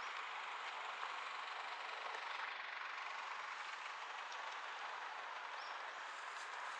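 Steady rushing noise of a bicycle ride through streets: moving air and street background, with no single event standing out.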